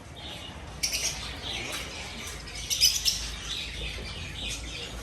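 Pet birds chirping: a run of short, high chirps, with louder bunches about a second in and again around three seconds in.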